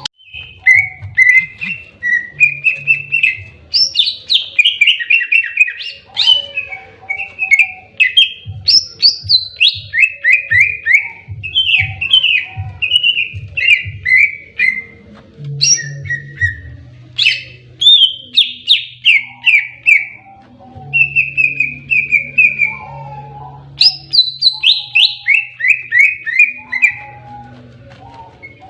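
Cucak ijo (greater green leafbird) singing its aggressive fighting song: a nearly continuous run of loud, rapid whistled notes, many in quick series falling in pitch, broken by a few short pauses. A low hum sits underneath.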